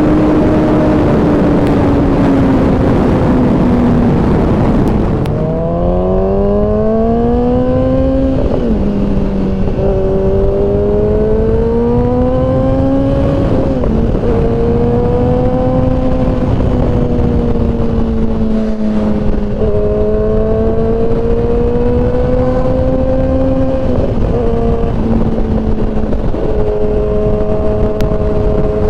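Kawasaki ZX-10R inline-four sport bike engine riding along with heavy wind rush for the first few seconds. After about five seconds the wind eases and the engine pitch climbs, then drops sharply every five seconds or so at gear changes, rising and falling gently in between.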